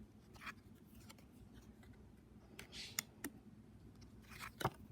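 Faint handling of fortune-telling cards: soft sliding rubs of card on card as the next cards are moved, with a few light clicks, the sharpest near the end.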